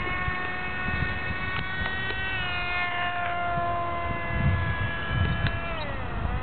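RC model airplane's motor and propeller whining. The pitch climbs sharply as the throttle comes up, holds steady, then falls near the end. Wind buffets the microphone underneath.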